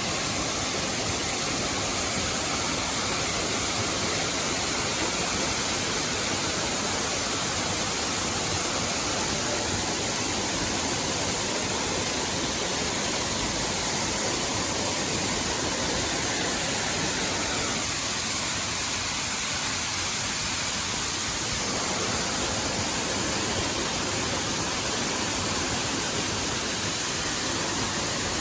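Waterfall, water falling and rushing in a steady, unbroken hiss.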